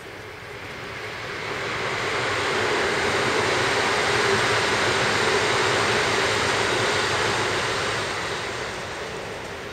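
Electric train passing overhead on a concrete railway viaduct: a rushing rumble that builds over the first two seconds, holds for about five, and fades toward the end, with a steady hum under it.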